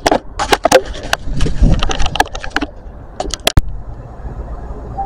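Low rumble of a diesel train passing, with many sharp clicks and knocks close to the microphone. A little over three seconds in, this cuts off abruptly to a quieter, steady low rumble.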